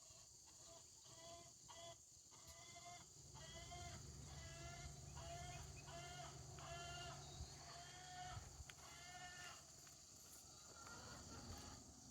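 A farm bird calling over and over, a short call roughly every two-thirds of a second, which stops near the end. Faint steady chirring of insects runs underneath.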